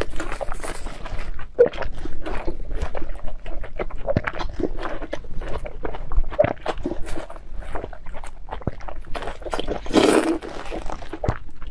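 Close-up crunching and chewing of a raw zucchini bitten straight from the whole squash: a dense run of crisp crackles, with a louder bite about ten seconds in.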